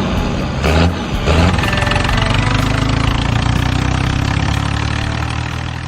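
Truck engine running, with a couple of short revs in the first second and a half, then running steadily and fading out near the end.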